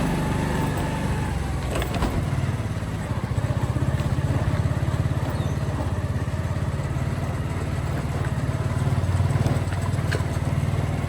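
Motorcycle engine running steadily while riding, a constant low pulsing engine note.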